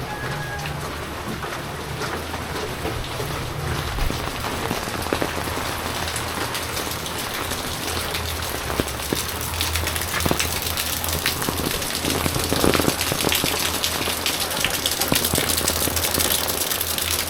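Heavy typhoon rain falling, a dense steady hiss studded with sharp drop ticks, growing a little louder in the second half. A low steady hum runs underneath.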